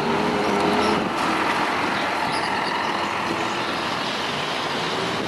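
Scania K420 coach's diesel engine running as the bus pulls in, a steady low drone with road and air noise; a faint whine fades out about a second in.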